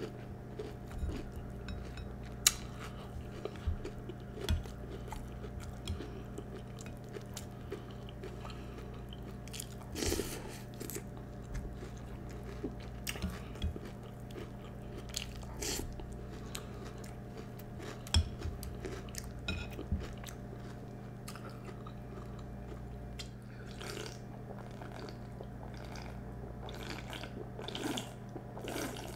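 A person chewing and crunching Peeps cereal, marshmallow-flavoured with marshmallow pieces, close to the microphone, in irregular crunches with a few louder bites. A steady low hum runs underneath.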